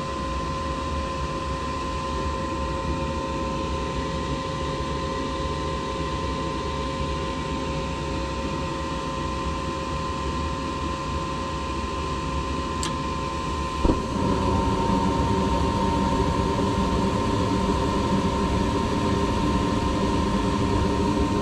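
Gas furnace running on test with a newly fitted inducer motor: a steady mechanical hum with a thin, even whine, free of the screeching the faulty old inducer had made. About 14 seconds in there is a click, and the furnace runs a little louder from then on.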